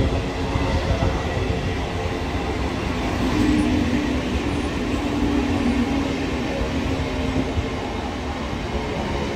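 Mumbai suburban local train (electric multiple unit) running through the station: a steady, loud rumble of wheels and cars with a constant hum in it.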